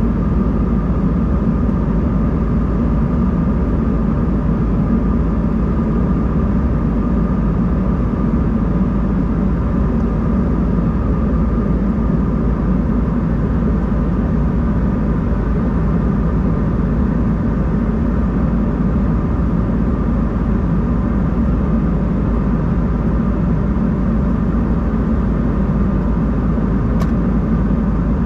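Steady jet engine and airflow noise inside the cabin of an Embraer 190-E2 in flight: a constant deep rush with a thin steady whine above it. A faint click comes near the end.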